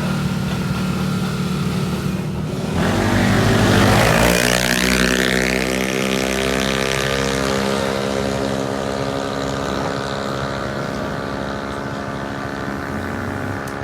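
Drag-racing CVT automatic scooter engine running at high revs. It swells to its loudest about four seconds in as it passes close, with a falling sweep in pitch, then drones on steadily, sinking slowly in pitch as it moves away.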